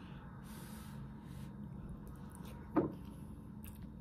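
A person chewing a mouthful of food, with faint mouth noises over a low steady hum. About three seconds in comes a short vocal sound falling in pitch, like an 'mm'.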